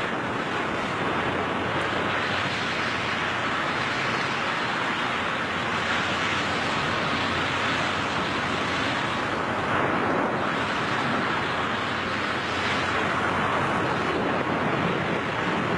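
Steady rushing wind noise on a skydiver's camera microphone in freefall.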